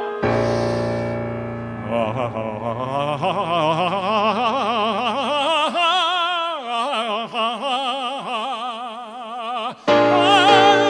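Male singer holding a long, sustained closing note with wide vibrato over a keyboard chord, climbing and then falling away as the ballad ends. Near the end the keyboard comes in suddenly and loudly with new chords.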